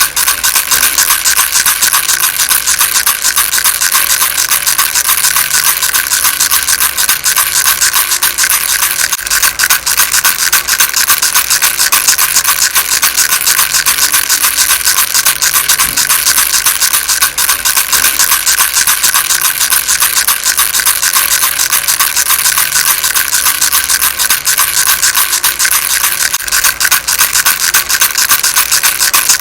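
Baby rattle shaken without pause: a dense, fast, steady rattling, bright and hissy, with little low end.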